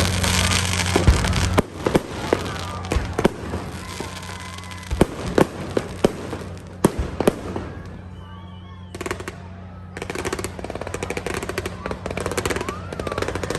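Fireworks display: scattered sharp bangs of shells bursting, then a dense stretch of rapid crackling from about ten seconds in.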